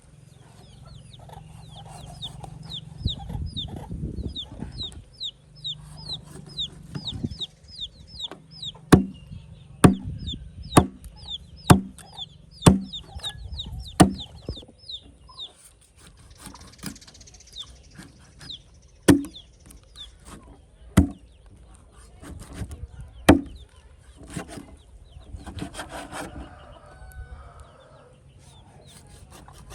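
Chickens chirping in a quick run of short, high, falling notes over the first half. A series of sharp knocks like chopping on a wooden board, about ten in all and spaced a second or two apart, starts partway through.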